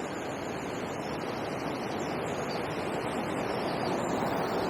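Steady rush of river water pouring over a weir, an even hiss with no breaks.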